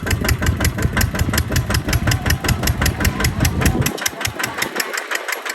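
Kubota tractor's diesel engine running with a rapid, even beat of about six to seven strokes a second. The deep low rumble drops away suddenly about four seconds in, and the beat carries on fainter.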